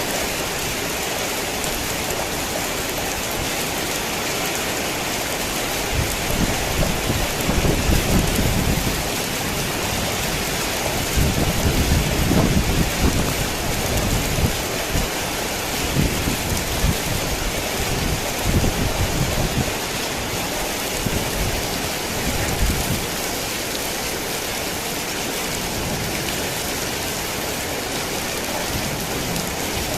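Heavy rain falling steadily, with thunder rumbling in uneven rolls from about six seconds in until just past the middle.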